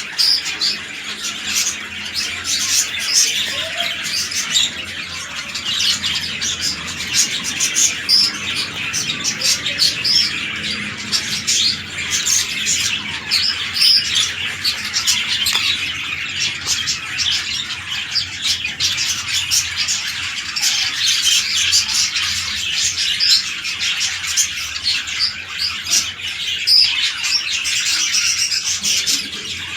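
A flock of budgerigars chattering and chirping, many birds calling over one another in a steady, dense twitter.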